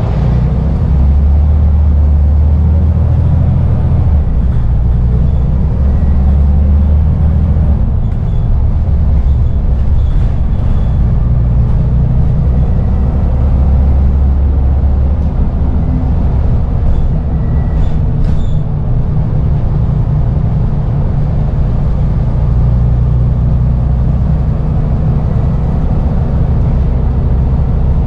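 Scania Omnidekka double-decker bus on a Scania N94UD chassis, its diesel engine running under way. A loud low drone grows stronger and eases off several times as the engine load changes.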